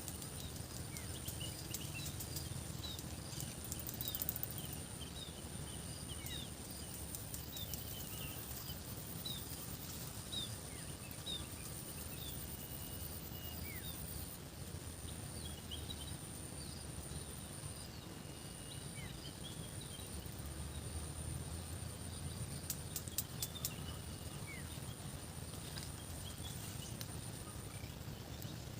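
Rural outdoor ambience: small birds chirping in short quick calls over a continuous high insect buzz and a low rumble. A few sharp clicks come a few seconds in, and a cluster of them comes near the end.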